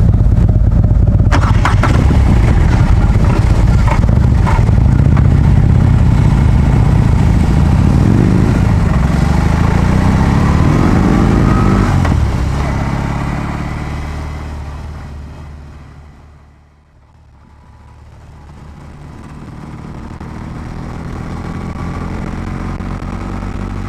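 Large air-cooled twin-cylinder motorcycle engine running loudly, with the revs rising several times. The sound then fades to almost nothing and slowly grows louder again.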